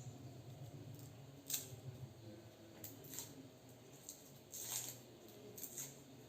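Faint, scattered scraping and clicking sounds of garlic and coriander being handled and worked for a spice paste, the loudest a sharp scrape about a second and a half in and a longer one near the end.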